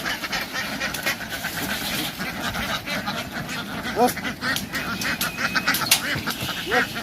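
A large flock of domestic ducks quacking continuously in a dense, overlapping clamour, with a couple of longer rising calls about four seconds in and near the end.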